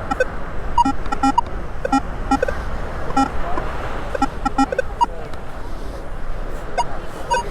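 Metal detector giving short target beeps at several different pitches over a target, coming in quick clusters and then pausing, with steady wind rumble on the microphone underneath.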